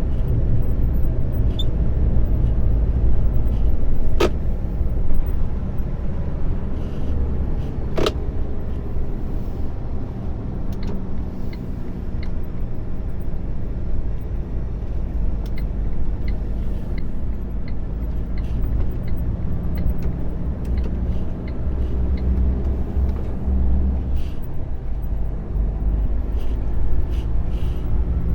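Lorry engine and road noise while driving, a steady low drone, with two sharp clicks about four and eight seconds in.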